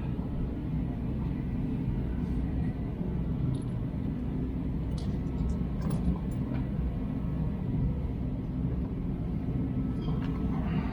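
Steady low rumble, with a few faint light clicks a few seconds in.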